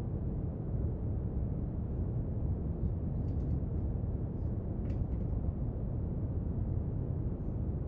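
Steady brown noise, a deep even hiss weighted to the low end, with a few faint small clicks about three and a half and five seconds in.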